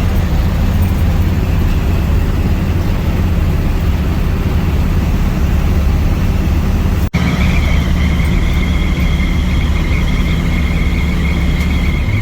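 Inside a truck's cab while driving at road speed: a steady low engine and road drone. A momentary break comes about seven seconds in, after which a steady high whine runs alongside the drone.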